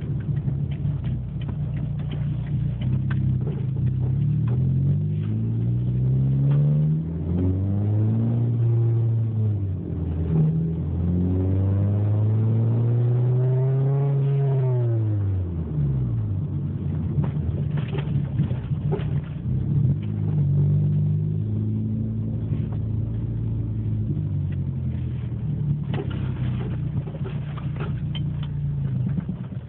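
Hyundai Tiburon's turbocharged 2.0-litre four-cylinder running through a 3-inch exhaust. The engine note climbs in steps over the first few seconds, then rises and falls in two long sweeps over the following ten seconds or so, and settles to a steadier low note for the rest.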